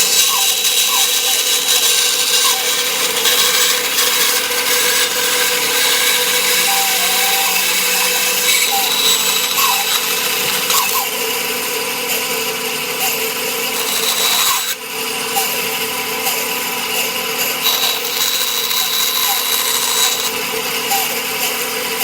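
Bandsaw running steadily while cutting wood wedges, with a short dip in its sound about fifteen seconds in.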